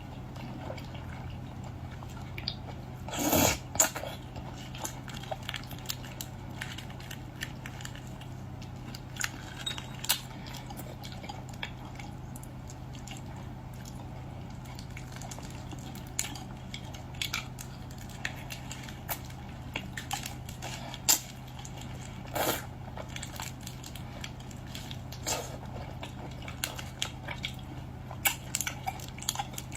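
Close-up eating sounds of peeled shrimp: scattered clicks and soft squishes of handling and chewing, over a steady low hum.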